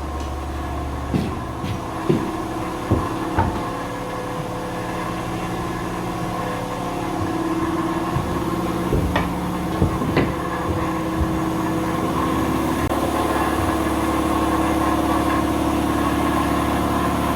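A steady motor hum, with a few sharp knocks and clicks scattered through it.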